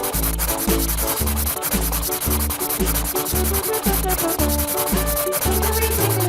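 Continuous scratchy rubbing of coloring strokes on paper, laid over children's background music with a bass note changing about twice a second.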